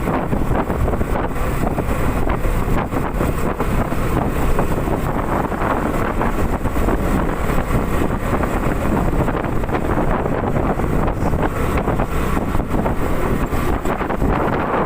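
Wind buffeting the microphone of a moving Honda CB150R motorcycle, with the bike's single-cylinder engine running underneath, steady throughout.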